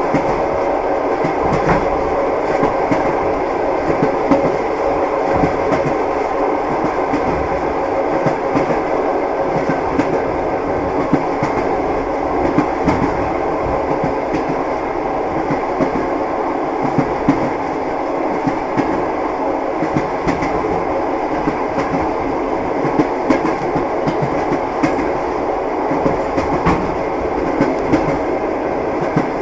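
Passenger train wheels clattering over the rails, heard from inside the carriage: a steady rumble with scattered sharp clicks.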